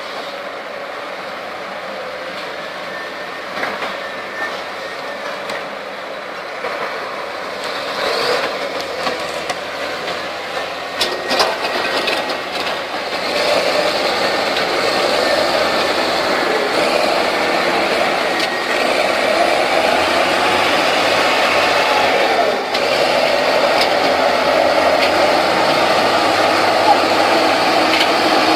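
Heavy diesel engines of an excavator and a crawler bulldozer running under load. The engine sound grows louder about halfway through, with a few sharp knocks shortly before.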